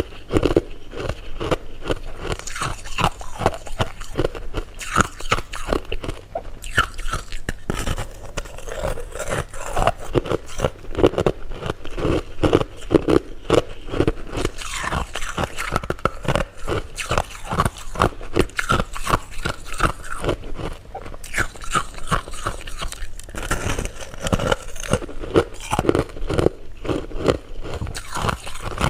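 Close-miked eating of candy: a steady run of crunching and chewing, with many sharp crackles coming at an uneven pace.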